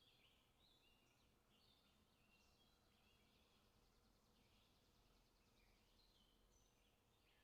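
Near silence, with faint high chirping of birds in the background, short calls repeating throughout.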